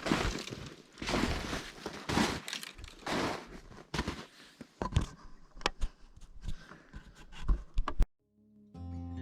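Footsteps crunching on frozen ground, about one step a second, then lighter scattered snaps and clicks. Near the end the sound cuts out and acoustic guitar music begins.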